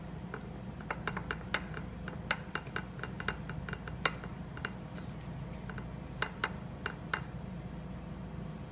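A pepper mill grinding black pepper: irregular sharp ratcheting clicks, a few a second, over a low steady hum.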